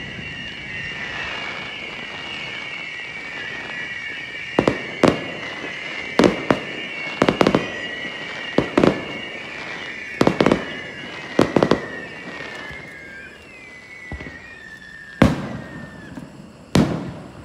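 Fireworks display: a dozen or so sharp booms of shells bursting, often in quick pairs, starting a few seconds in and with two more near the end. Under the booms runs a continuous high, wavering whistling that slides down and fades away about three-quarters of the way through.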